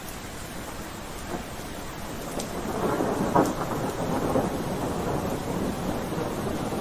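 Steady rain, with a roll of thunder that builds from a little over two seconds in, gives a sharp crack near the middle, and keeps rumbling afterwards.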